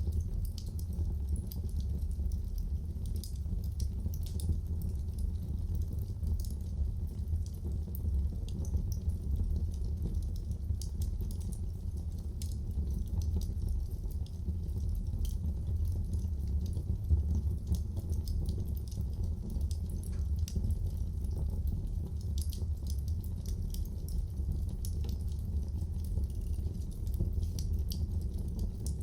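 Fire burning in a fireplace: a steady low rumble with frequent small crackles and pops scattered throughout.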